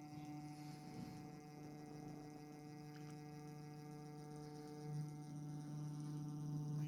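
Electric motor of a Hornby Oliver model steam locomotive humming steadily as it crawls along the track at low speed, a little louder about five seconds in.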